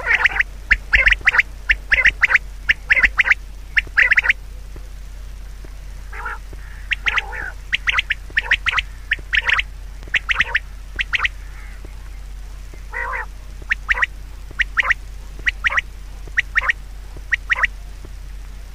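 Bird calls: runs of short, repeated calls, several a second, broken by two brief pauses, one a little over four seconds in and one around eleven seconds in.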